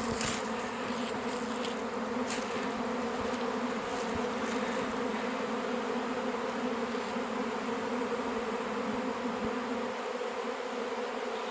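A swarm of honey bees in flight all around, a dense steady buzzing hum that holds one pitch.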